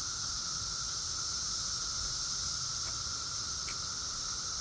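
Chorus of periodical cicadas in the surrounding trees: a steady, unbroken drone made of a lower buzzing tone and a high hiss.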